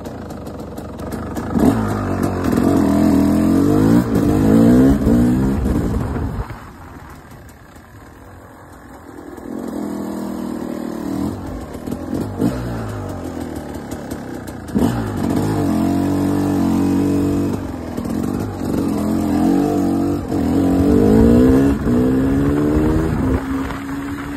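KTM two-stroke supermoto engine accelerating hard, its pitch climbing again and again as it revs up and eases off. It drops to a quieter run about seven seconds in, then picks up and climbs repeatedly once more.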